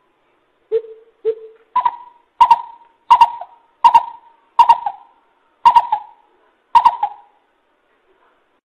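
Greater coucal lure call: two low hoots, then a series of seven higher, sharper hooting notes spaced a little over half a second apart, which stops near the end.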